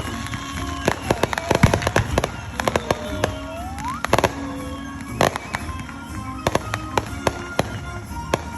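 Fireworks going off: a rapid series of sharp bangs and crackles, with a rising whistle about three to four seconds in.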